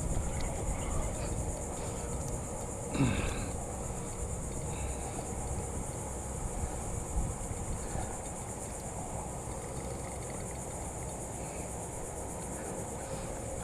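Steady high-pitched insect chorus of crickets or cicadas, over a low rumble of wind or water. A brief louder sound with a falling pitch cuts in about three seconds in.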